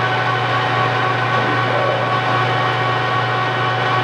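Kearney & Trecker 205-SA horizontal milling machine running under power, its 5 HP drive and gearing making a steady hum with several constant high tones over it.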